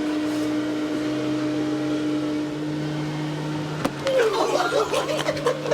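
Vacuum cleaner running with a steady motor hum whose lower tone steps up in pitch about halfway through. A sharp knock comes near 4 seconds, followed by muffled, wavering vocal sounds and clicks.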